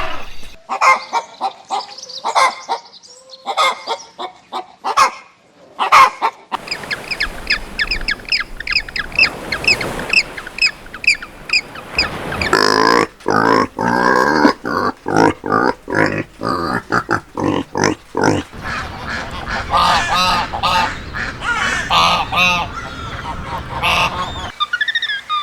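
Waterfowl calling: loud repeated honks and short calls, coming in several separate stretches, one of them a quick regular run of calls.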